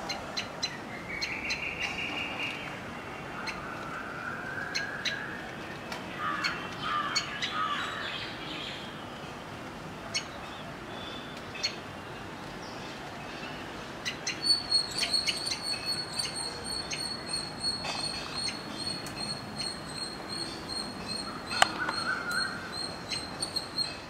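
Birds chirping in short calls over scattered clicks, with a steady high tone joining a little past halfway.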